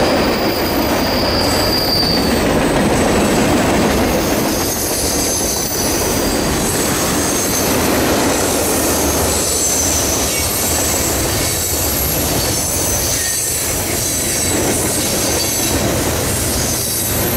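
Railroad cars rolling past on steel wheels: a continuous rumble and clatter with repeated high-pitched wheel squeals throughout.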